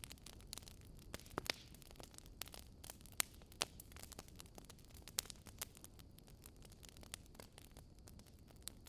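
Faint fire crackling: irregular sharp snaps and pops over a low hiss, a few louder pops in the first half.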